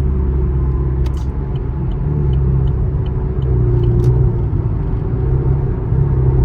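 Chevrolet Camaro driving at highway speed: steady engine and road rumble, the engine note shifting a little. A run of light quick ticks comes between about one and four seconds in.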